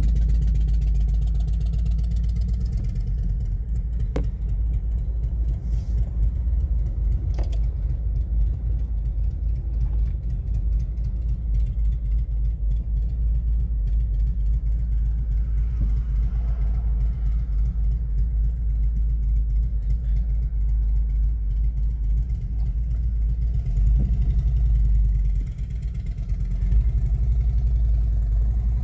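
Harley-Davidson V-twin engine with a stage 2 upgrade running, a steady low rumble; it drops off briefly about 25 seconds in, then picks up again.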